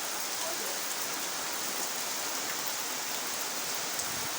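Heavy tropical rain pouring down steadily: a dense, even hiss with scattered sharp ticks of individual drops striking.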